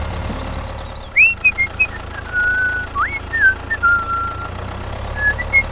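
A string of clear whistled notes, some swooping up or down and two held steady for about half a second, starting about a second in, over a steady low hum.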